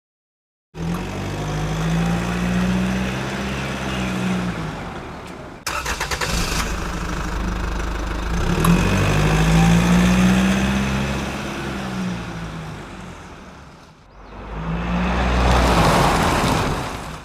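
Motorcycle engine running and revving, its pitch rising and falling in long swells. The sound starts abruptly under a second in and breaks off sharply twice, as at cuts between clips.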